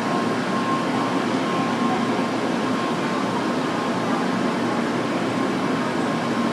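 Steady mechanical hum and rushing noise of a Shinkansen bullet train standing at the platform before departure, with a faint steady tone.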